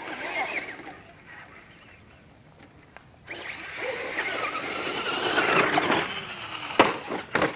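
Electric RC short-course truck (Traxxas Slash) speeding up with a high whine from its electric motor and gears over tyre noise, starting about three seconds in, then two sharp knocks near the end as it goes over the jump and lands.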